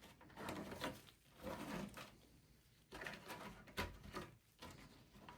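Faint handling noises: soft rustles and a few light clicks as power supply cables are worked into place inside a desktop computer case.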